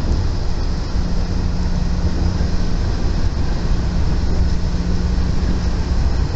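Train running at speed, heard from inside the passenger car: a steady rumble of wheels and running gear, with a low hum under it.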